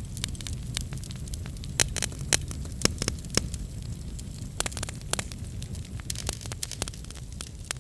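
Wood fire burning: a steady low rumble with irregular sharp crackles and pops, a few louder pops about two to three and a half seconds in.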